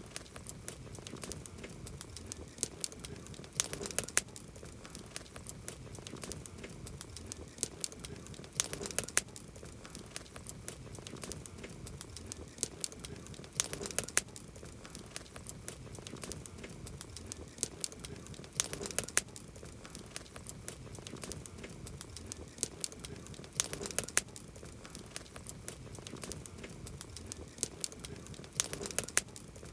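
Wood campfire crackling, with scattered sharp pops and a denser cluster of pops about every five seconds.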